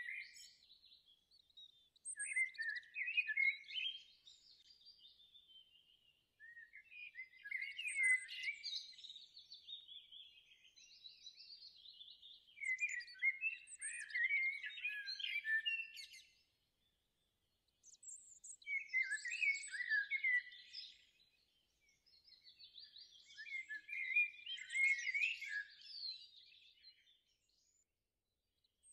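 A songbird singing: rapid chirps and trills in phrases of a few seconds, with short pauses between them.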